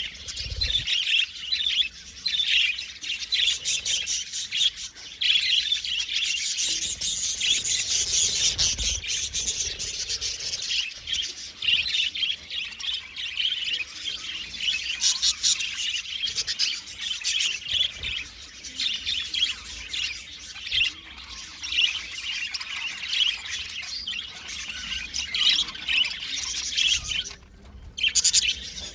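Several budgerigars chirping and warbling together in a continuous, busy chatter with occasional squawks, dipping briefly near the end.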